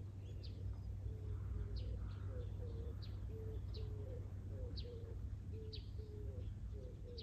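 Wild birds calling outdoors: short high chirps about once a second, over a run of short, low repeated notes from another bird, with a steady low rumble of outdoor air underneath.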